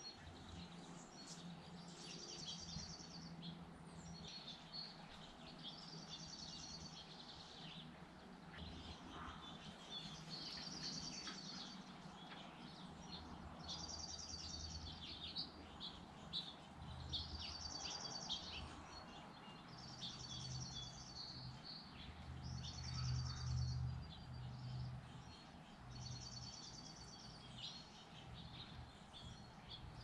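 A songbird sings a short, high trill of about a second, repeating every few seconds. A faint low hum runs beneath it and grows louder in the second half.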